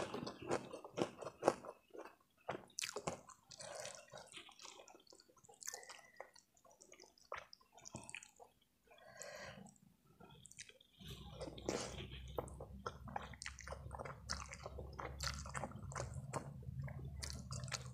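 Close-miked wet chewing of saucy stir-fried instant noodles, with many short sticky mouth clicks and smacks. A low steady hum comes in about eleven seconds in.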